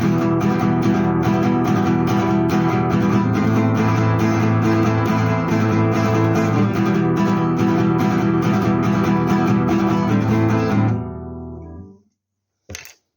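Acoustic guitar strummed in a steady, even rhythm. About eleven seconds in the strumming stops and the last chord rings out and fades, followed by a brief knock or rustle near the end.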